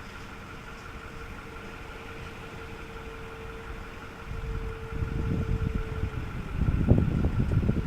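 Ford F-550 Super Duty truck engine idling steadily, with a steady whine over it for most of the clip. Heavier, uneven low rumbling comes in after about four seconds.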